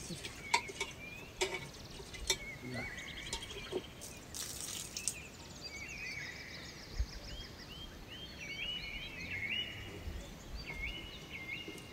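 Small birds calling again and again, short high chirps that rise and then hold, thickest in the second half, over steady outdoor background noise. A few sharp clicks or knocks come in the first half.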